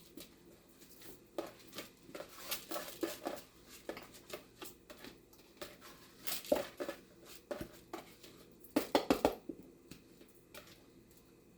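Kitchen handling sounds as washed basmati rice is added to the cooking pot: scattered clicks and brief scrapes of a utensil and bowl against the pot, then a quick run of about five sharp knocks about nine seconds in.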